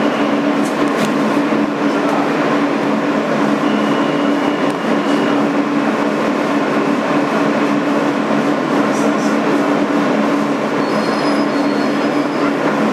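Interior sound of a 2008 Kawasaki R160B New York subway car: a steady rumble with a constant low hum, and brief high-pitched squeals around 4 seconds and 11 seconds in.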